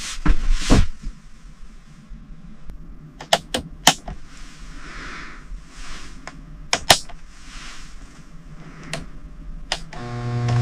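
A series of sharp knocks and clicks, some coming in quick pairs, with a short humming buzz starting near the end.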